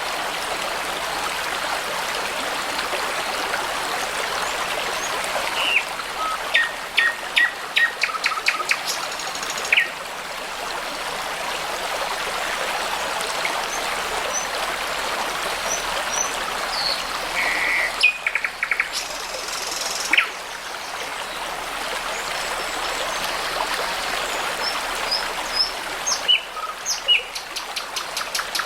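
A babbling brook running steadily, with songbirds singing over it in short bursts of rapid notes and chirps, a few seconds apart.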